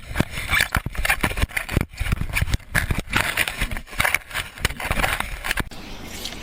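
Rapid, irregular knocks and scrapes on a hard surface, stopping about five and a half seconds in and giving way to a steady noise.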